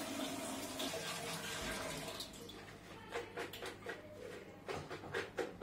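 Water running from a tap, easing off about two seconds in, followed by a series of short, light clinks and knocks.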